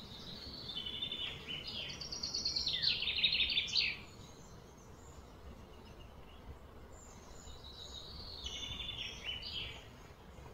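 A songbird singing: a run of quick, high chirps and trills, then a shorter, softer phrase near the end.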